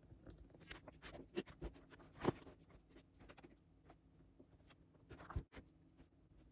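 Quiet handwriting sounds: short scratchy strokes and light taps of a writing tip on a surface, with a few sharper taps about a second and a half, two seconds and five seconds in.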